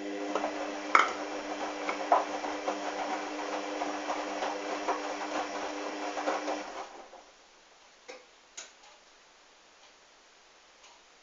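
Hoover washing machine tumbling a load of wet towels in its wash cycle: the drum motor hums steadily under the sloshing and soft clunking of the sudsy load, then the drum stops about seven seconds in, leaving only a few faint clicks.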